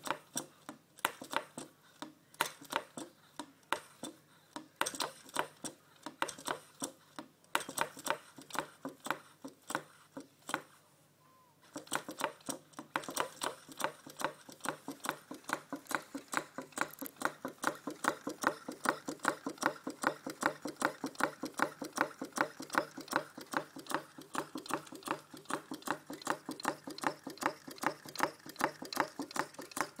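Stirling engine running with a rhythmic mechanical clicking on each turn. It goes slowly and unevenly at first, falls quiet briefly about eleven seconds in, then settles into a faster, steady beat of about four to five clicks a second.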